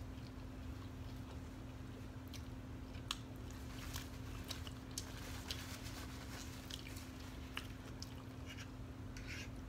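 A person chewing food, with scattered small sharp clicks and smacks over a faint steady hum.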